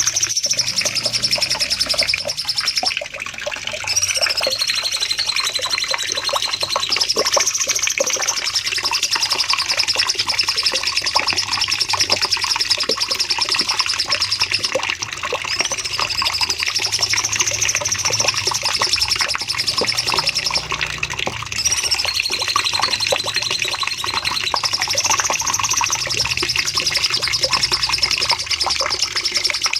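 Cucak cungkok songbird singing its long, fast, high-pitched trilling song ('nembak panjang'), nearly continuous in phrases several seconds long separated by short breaks.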